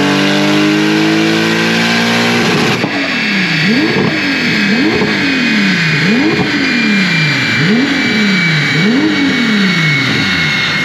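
VR6 Volkswagen Golf engine running on a chassis dyno, revs climbing steadily, then about two and a half seconds in a run of five quick throttle blips, each rising sharply and falling back slowly, over a steady high whine.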